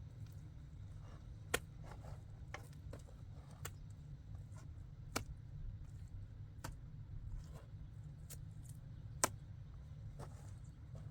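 A series of sharp clicks or knocks at irregular intervals, three of them much louder than the others, over a low steady rumble.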